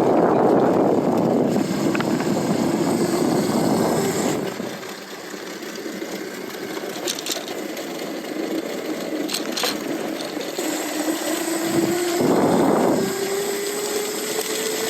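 Electric mid-drive motor of a Lightning Rods–powered e-bike whining steadily under riding, its pitch rising near the end as the bike speeds up. Wind rushes over the microphone near the start and again near the end, and there are a couple of faint clicks in the middle.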